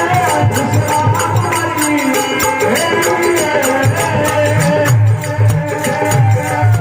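Rajasthani folk bhajan music: a dholak beat with metallic jingles keeping steady time under a sustained, gliding melody line.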